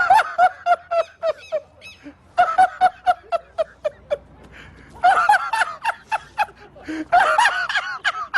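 High-pitched laughter in rapid, chopped bursts, coming in three runs with short pauses between them.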